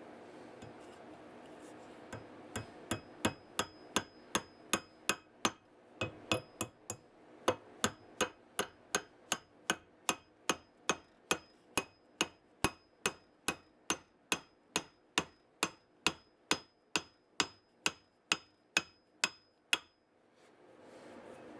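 A hammer striking metal over and over, about two even strikes a second, each with a short metallic ring. The strikes start about two seconds in and stop shortly before the end.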